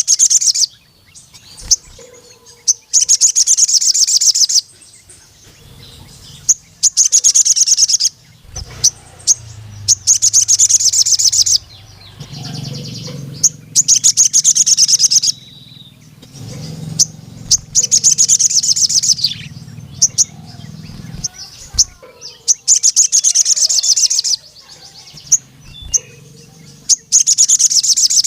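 Male sogon sunbird singing: bursts of rapid, high-pitched trilled notes lasting one to two seconds, repeated every few seconds, with single sharp chirps in between.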